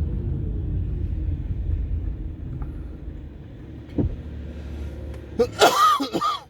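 Low rumble of a vehicle heard from inside as it drives, gradually quietening as it slows. There is a sharp click about four seconds in, and near the end a loud, wavering high-pitched sound lasting about a second.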